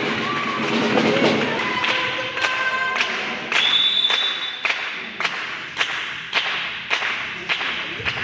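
A steady rhythm of sharp claps or knocks, about two a second, ringing in a large sports hall, with a short high steady tone in the middle.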